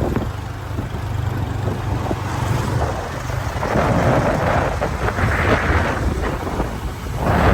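Wind rushing over the microphone on a moving motorbike, with the bike's engine running low underneath. The rush swells louder about halfway through and again near the end.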